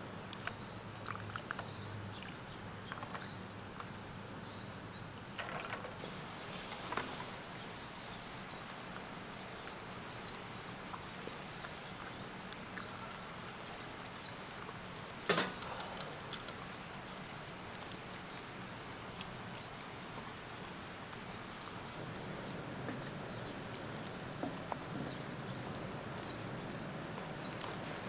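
Insects chirring steadily in one high, slightly wavering pitch over a steady low hiss, with one sharp click about fifteen seconds in and a few fainter ticks.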